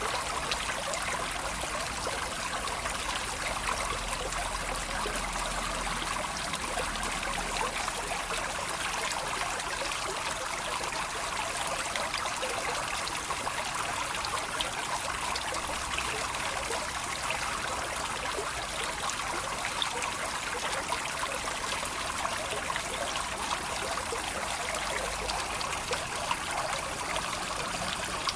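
Water trickling and babbling steadily, a small stream splashing over stones, with a constant, even level.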